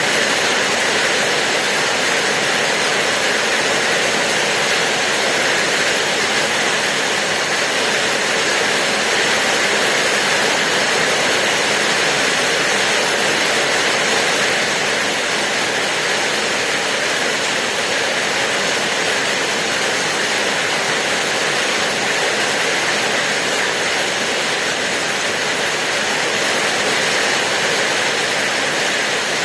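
Steady rain: an even, unbroken wash of raindrops with no separate drips standing out.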